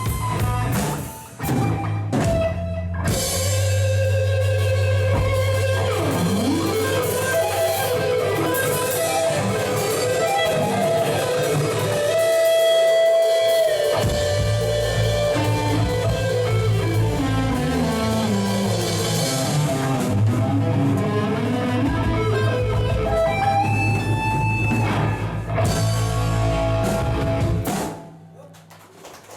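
Rock music: a melodic guitar line with slides and bends over a steady bass and drum kit, stopping suddenly near the end.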